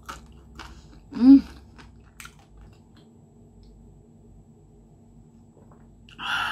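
Close-up crunching and chewing of deep-fried chicken-breast cartilage in the first couple of seconds, with a brief vocal sound about a second in. A short, loud breathy sound comes near the end.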